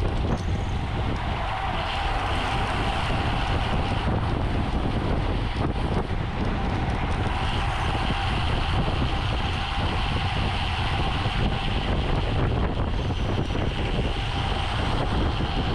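Wind buffeting the microphone while riding at racing speed on a road bicycle, over a steady low rumble of tyres on the road, with a faint steady whine that grows stronger about seven seconds in.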